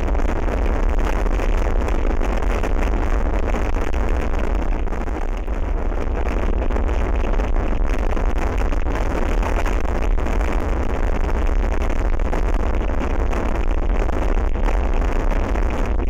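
Strong south-westerly wind blowing across the microphone: a steady, heavy low rumble under a rushing hiss, dipping slightly about five seconds in.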